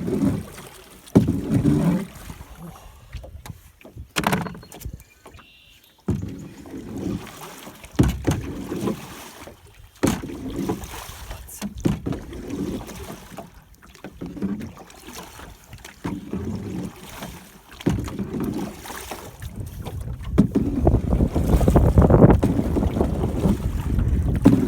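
One oar working a small boat through the water, its strokes splashing and churning about every two seconds. Wind buffets the microphone, louder near the end.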